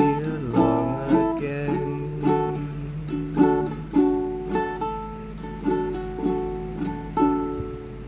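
Acoustic plucked string instrument strumming the closing chords of the song in a steady rhythm, dying away as the last chord rings near the end.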